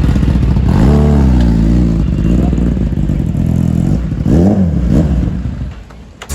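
Kawasaki ZX-10R's inline-four engine being revved: the pitch rises and falls about a second in, again past the middle, and then the sound fades away near the end.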